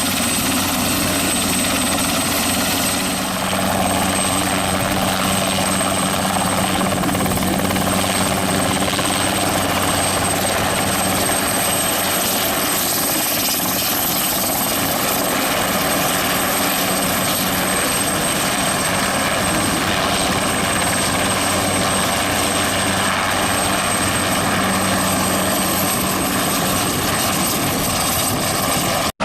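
Bell 206 helicopter running steadily: a high, even turbine whine over the constant hum of the engine and rotor.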